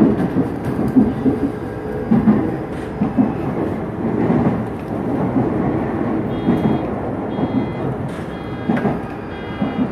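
Shizuoka Railway electric train running, with steady wheel-on-rail rumble and clatter. About two-thirds of the way through, a high ringing tone joins in, repeating roughly every three-quarters of a second.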